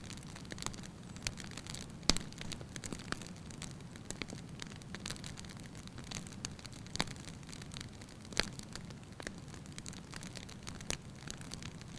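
Wood fire burning in a fireplace: irregular sharp crackles and pops over a low steady hiss, with a louder pop about two seconds in.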